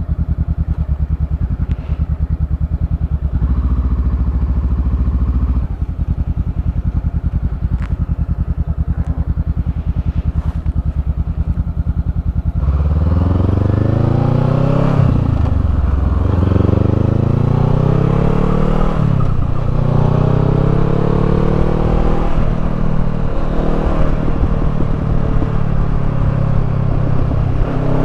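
Honda 500 parallel-twin motorcycle engine with a Termignoni slip-on exhaust, running steadily at low revs. About 13 seconds in it gets louder and accelerates hard, the pitch climbing and dropping back at several upshifts.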